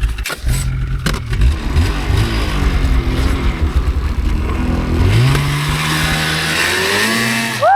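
Polaris RMK snowmobile two-stroke engine running under load in deep snow, then revving up about five seconds in and holding at high revs. A short voice whoop begins at the very end.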